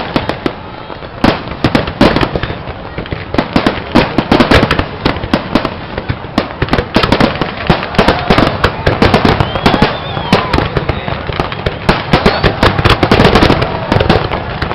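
Fireworks going off in a rapid, continuous barrage of bangs and crackling pops, many overlapping one another.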